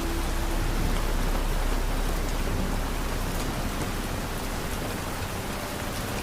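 Steady rain falling, an even hiss of drops with a low rumble beneath it.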